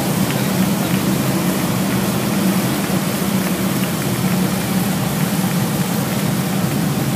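Motorcycle engines running steadily at low speed: an even, unbroken engine rumble.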